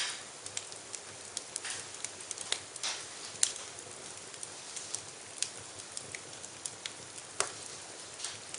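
Wood fire crackling in a fireplace: irregular sharp pops and snaps over a soft steady hiss, with louder pops about three and a half seconds in and again near seven and a half seconds.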